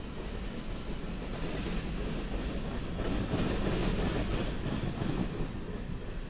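Covered hopper cars of a grain train rolling past, a steady rumble of steel wheels on the rails, a little louder about three to five seconds in.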